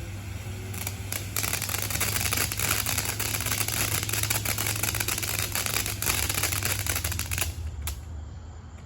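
Consumer firework crackling: a dense, rapid stream of small crackles that starts about a second in and dies out near the end.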